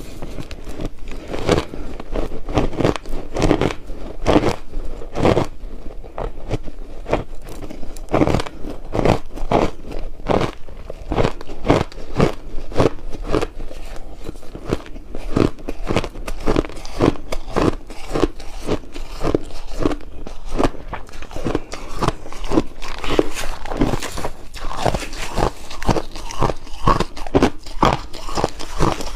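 Ice being bitten and chewed close to the microphone: a steady run of short, sharp crunches, a couple or more each second.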